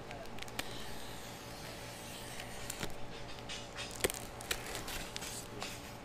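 A cardboard shipping box and its packing being handled and opened: scattered scrapes, crackles and sharp clicks over a low room hum, the sharpest click about four seconds in.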